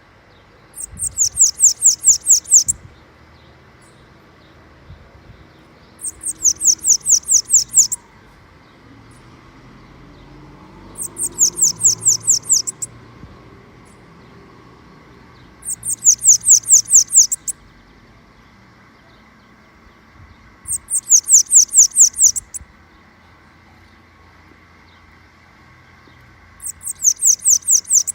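A small songbird singing the same phrase six times, about every five seconds: a quick run of high, downward-slurred notes lasting under two seconds each.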